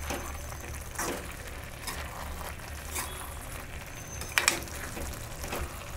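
Carrot halwa sizzling in a metal kadhai over a high flame as the last of the milk cooks off, with a metal ladle stirring it and striking the pan roughly once a second. The loudest stroke is a quick double knock a little past four seconds in.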